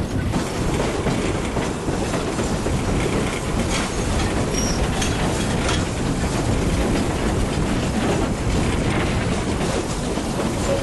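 Passenger coach of a steam heritage train running along the track: a steady rumble of wheels on the rails, with a few faint clicks from the rail joints a few seconds in.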